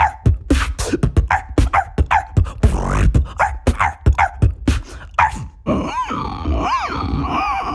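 Beatboxer imitating dog barks: short bark-like yips set to a beat of sharp mouth-percussion hits, about two or three a second. A little over halfway through it switches to a steadier vocal sound with repeated rising-and-falling pitch sweeps.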